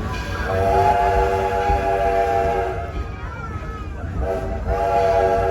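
Steam locomotive whistle sounding a chord of several tones: one long blast, then a short one and another long one, over the low rumble of the train running.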